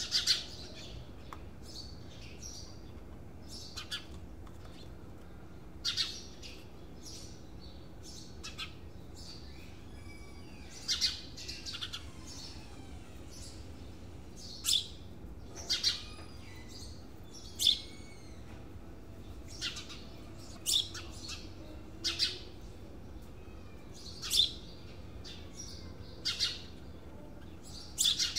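Birds chirping: short, high calls, some sliding down in pitch, scattered every second or two over a faint steady background.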